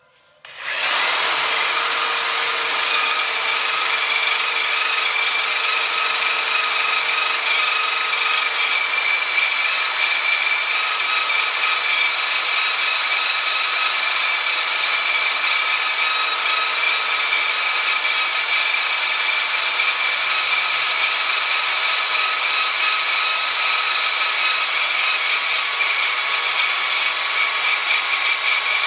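Power tool starting about a second in and then running steadily under load on steel plate, a dense high-pitched noise with a steady whine through it.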